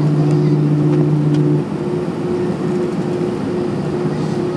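Airbus A320 cabin noise while the aircraft rolls after landing: a steady rush of engine and airflow noise with a low hum. The strongest part of the hum cuts off suddenly about one and a half seconds in, and a higher steady tone carries on in broken stretches.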